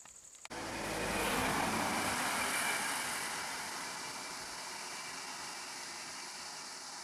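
A motor vehicle passing, its engine and road noise swelling up sharply and then slowly fading away.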